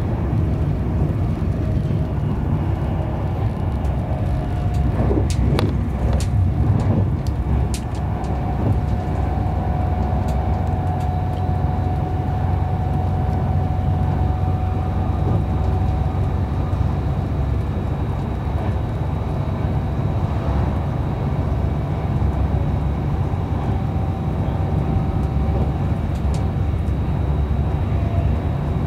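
Running noise inside a Virgin Trains Class 390 Pendolino electric train at speed: a steady low rumble of wheels on rail, with a cluster of sharp clicks about five to seven seconds in and a faint steady whine through the middle.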